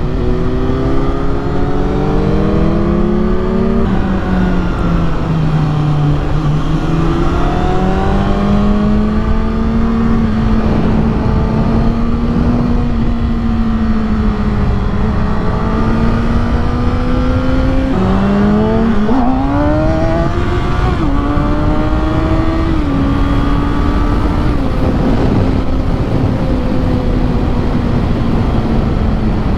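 600-class inline-four sport bike engine under way, its pitch rising and falling with the throttle, with sudden pitch steps at gear changes about 4 seconds in and several more in the second half. A steady low rush of wind runs underneath.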